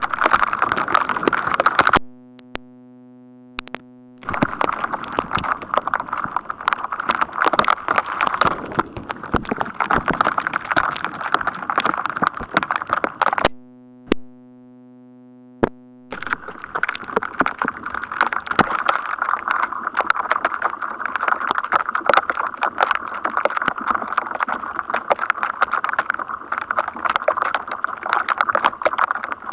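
Dense, rapid, irregular crackling of electrostatic static from thunderstorm electrical activity ahead of the thunder. It cuts out twice, about two seconds in and about thirteen and a half seconds in, each time for about two seconds, leaving only a faint steady hum.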